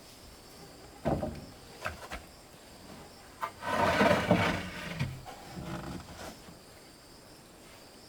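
Wood being handled: a knock, a few sharp clicks, then a scraping, rubbing noise from wood against wood, over a steady high drone of insects.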